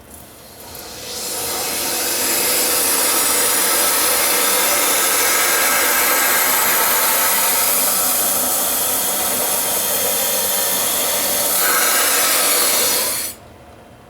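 Soldering torch burning with a steady hiss as it heats a copper pipe joint. It builds up over the first two seconds and shuts off abruptly near the end.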